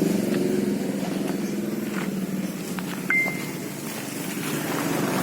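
Yamaha RX King's single-cylinder two-stroke engine idling steadily through an aftermarket ADS muffler, with a fast even pulse. A brief high-pitched tone sounds about three seconds in.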